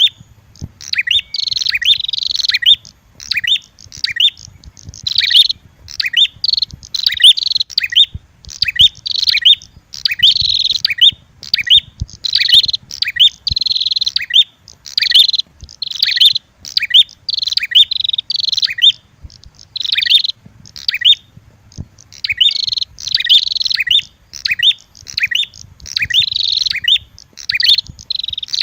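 Prenjak (prinia) lure calls: rapid, shrill chirping phrases repeated about twice a second, loud and nearly continuous, with short breaks near the middle and near the end.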